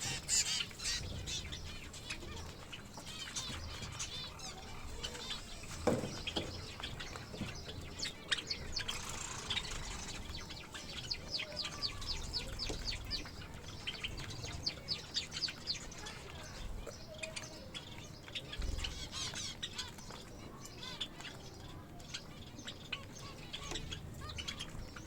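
A flock of small cage finches, including Java sparrows, gives many short, high chirps throughout, with wings fluttering now and then. There is one sharp knock about six seconds in.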